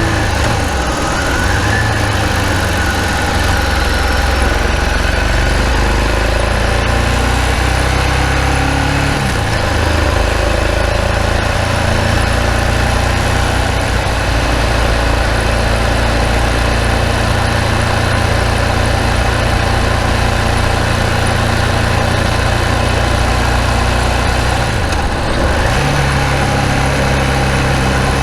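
Ducati Multistrada 1000DS's air-cooled L-twin engine running through its refitted exhaust with new gaskets. The note holds steady, with brief dips about nine seconds in and again about twenty-five seconds in.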